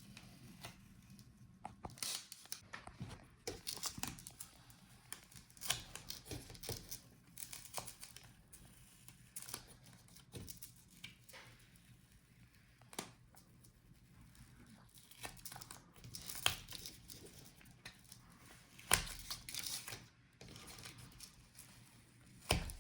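Wi-Fi antenna being peeled and pulled off the inside of a laptop display's plastic back cover: irregular short tearing and crinkling rasps with scattered sharp clicks, a few louder clicks near the end.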